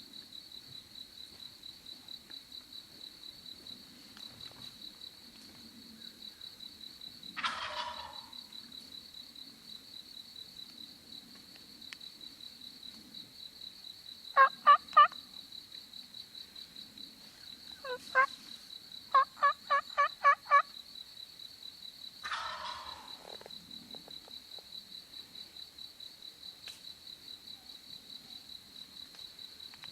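Eastern wild turkey gobbler gobbling twice, about eight seconds in and again near the end, with a loud, close run of four turkey yelps in the middle followed by a run of about seven more, which fits the hunter yelping with his mouth, no diaphragm call. An insect trills steadily underneath.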